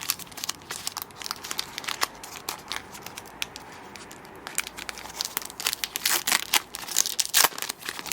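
Foil wrapper of a Pokémon Paldea Evolved booster pack crinkling and tearing as it is opened by hand: a dense run of sharp crackles that gets louder near the end.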